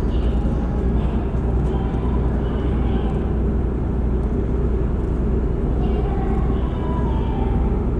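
Steady low rumble of a car ferry's engines under way, with a haze of wind and water noise and faint voices.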